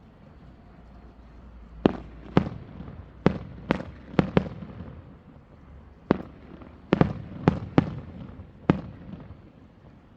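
Aerial fireworks shells bursting: about eleven sharp bangs at irregular intervals, some in quick pairs, each with a short rumbling echo. The first starts about two seconds in.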